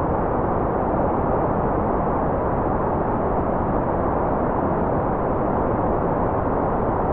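Steady, unbroken white noise: an even rushing hiss that never changes in level, weighted toward the low and middle range with little treble.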